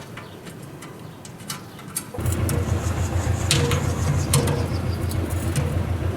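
A few light clicks and knocks, then about two seconds in a loud, steady low hum with a rattle comes in suddenly and keeps running: machinery running.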